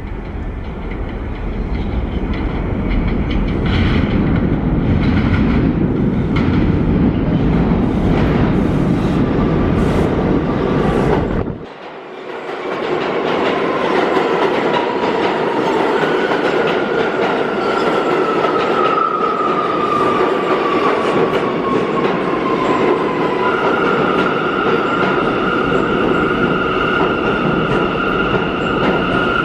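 R179 subway train rumbling and clattering over the rails, then, after a brief dip, an electric whine that falls steadily in pitch as the train slows, settling into a steady high hum near the end.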